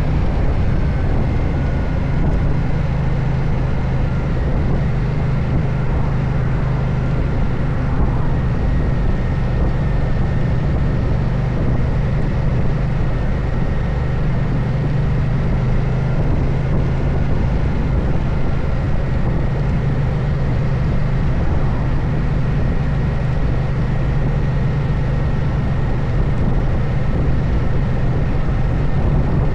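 Moto Guzzi Stelvio's transverse V-twin engine running at a steady, unchanging speed.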